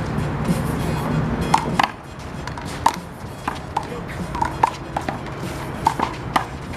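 A doubles handball rally: a rubber handball smacked by open hands and slapping off the wall in sharp pops at an irregular pace, about a dozen hits in a few seconds.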